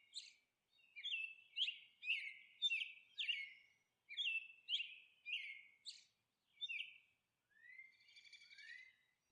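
Faint bird chirping: a run of short falling chirps, about two a second, that stops after about seven seconds, followed by two fainter rising notes.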